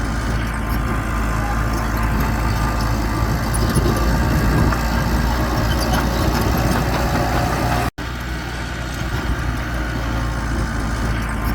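Heavy diesel engine of earthmoving machinery running steadily with a low drone. The sound cuts out completely for an instant about eight seconds in, then resumes unchanged.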